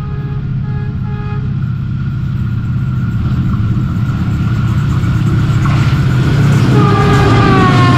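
ZCU30 diesel-electric locomotive hauling an express train approaching at about 113 km/h, its engine and wheel rumble growing steadily louder. The horn sounds in short blasts for the first second and a half, then holds, and its pitch drops near the end as the locomotive reaches the platform.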